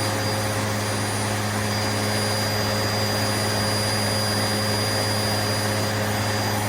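Hoover bagless upright vacuum cleaner running on its high setting: a steady motor hum with a piercing high-pitched whine on top, deafening.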